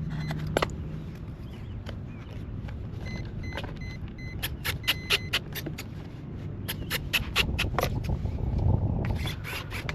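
Wind buffeting the microphone as a steady low rumble, with a run of sharp clicks and rattles from handling gear and a few short high beeps in the middle.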